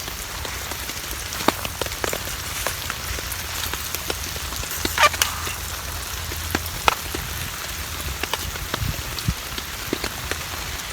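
Rain pattering on a tarp overhead, with scattered sharper ticks of individual drops.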